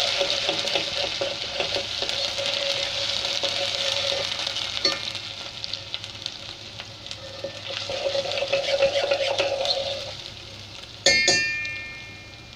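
Onion and garlic-ginger paste sizzling in hot ghee in a steel pot while a metal spoon stirs and scrapes through it. The sizzle dies down after about ten seconds, then the spoon knocks the pot once with a ringing metallic clang.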